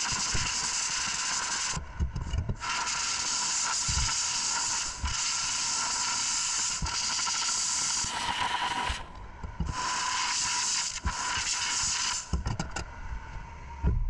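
Small power tool with a steady whine abrading metal in long passes, dropping off briefly about two seconds in and again about nine seconds in, then faltering near the end.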